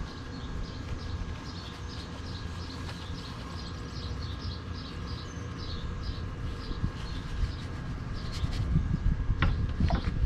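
A bird chirping over and over, short high notes about three a second, over a steady low rumble. A few sharp clicks come near the end.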